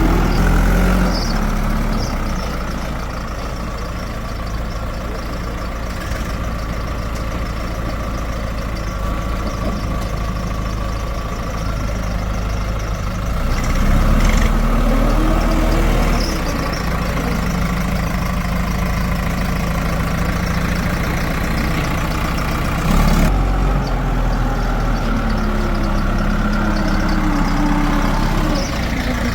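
Heavy diesel engine running, its pitch rising and falling about halfway through and again near the end as it is worked under load.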